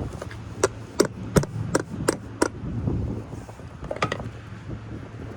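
Hammer blows on a small chisel, working at a forklift battery cell: six quick strikes in a row, then one more about four seconds in.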